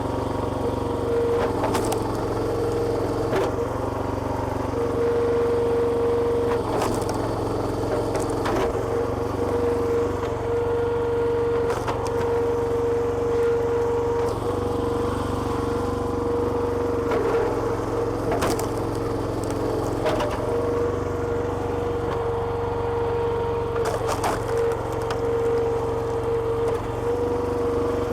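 Small petrol engine running steadily to drive a hydraulic log splitter, with a steady whine that comes and goes and a few sharp cracks of wood splitting.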